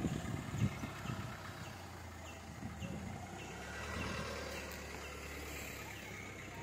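A car engine idling with a steady low hum, a few soft thumps in the first second, and faint short high chirps repeating about twice a second.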